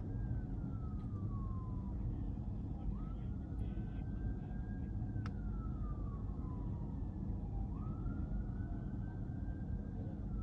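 Low road and engine rumble of a car driving, with an emergency-vehicle siren wailing over it: each cycle rises quickly, holds, then falls slowly, about three times. A single sharp click comes about halfway through.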